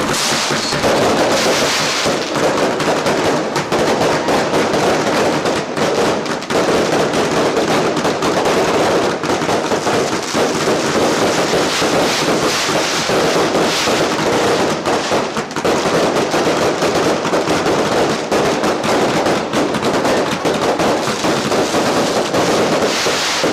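A long, dense barrage of fireworks: rapid bangs and crackles following one another without a break, loud and continuous.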